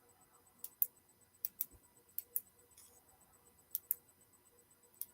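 Push-button clicker on a phone's stylus pen being clicked repeatedly, about five quick double clicks, each a press and release.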